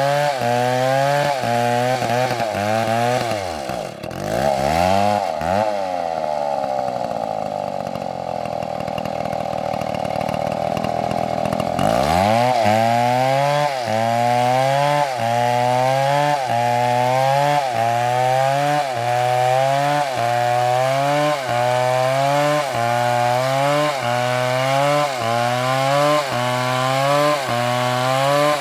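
Large chainsaw cutting through a big tree trunk, its engine pitch dipping and recovering about once a second as the bar rocks through the cut. A few seconds in, the engine sags and holds a steadier, lower note for several seconds, then revs back up and the rhythmic cutting resumes.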